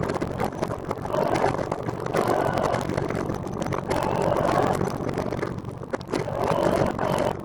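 Wind and road noise from a moving recumbent trike, swelling and fading roughly once a second.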